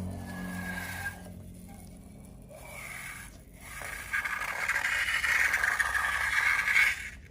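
Slime being handled with a noisy scraping and squishing sound, louder from about four seconds in and stopping abruptly near the end.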